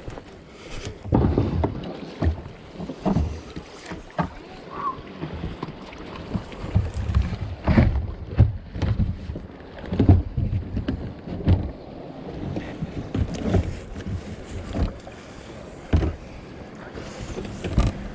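Water splashing and lapping around a kayak on a river, with irregular low bumps and short splashes scattered throughout and wind on the microphone.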